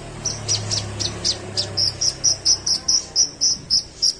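A kolibri ninja sunbird singing a rapid string of sharp, high chips that settles about halfway through into a steady run of clear short notes, about four a second and getting louder. This is its mimicking song, which borrows from calls such as the tree sparrow's and the yellow-vented bulbul's.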